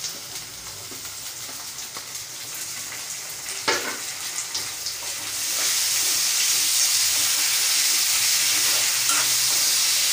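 Chopped tomato and mixed vegetables sizzling in hot oil in a kadhai as they are stirred with a metal ladle. A single sharp clink comes just before halfway, then the sizzle swells and stays loud.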